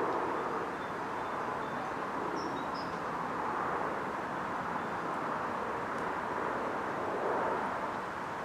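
Class 375 electric multiple-unit train running through, a steady rushing noise with no engine note.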